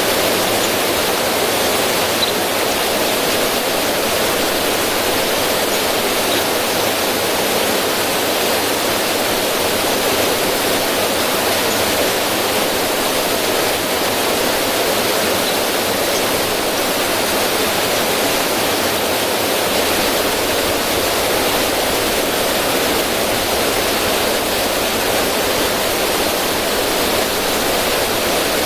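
River water rushing steadily over rocks in a small cascade.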